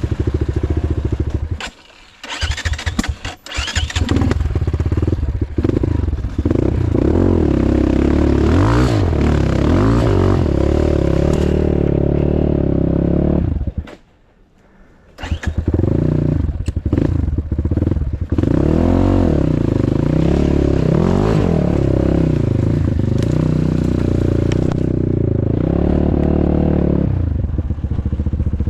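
Motorcycle engine revving hard and unevenly, rising and falling over and over, as the rider tries to get the stuck bike moving. The engine drops out twice, about two seconds in and again about fourteen seconds in, then fires and runs again.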